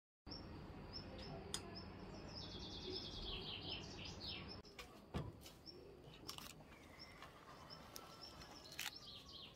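Small birds chirping faintly, with a quick run of repeated high notes a couple of seconds in, over a low outdoor background; a few sharp clicks in the second half.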